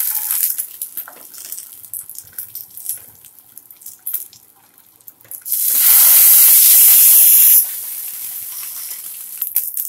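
Banana-leaf-wrapped patties sizzling in a frying pan with a little hot oil as they are turned over with a spatula, with light clicks and scrapes of the utensil on the pan. About six seconds in a loud burst of hissing lasts two seconds and stops suddenly, followed by a quieter hiss.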